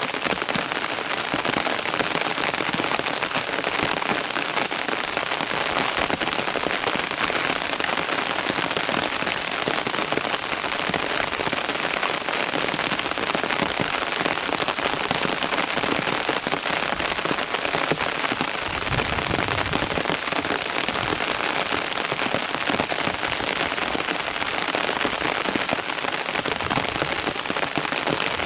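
Steady rain falling, with many small drops pattering on a surface in a dense, even hiss.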